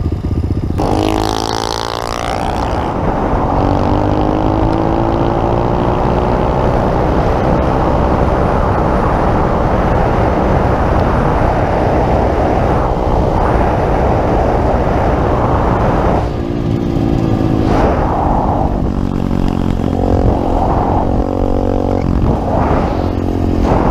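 Pit bike engine running hard while riding, its pitch climbing about a second in and rising and falling with the throttle and gear changes near the end, over a rush of wind noise.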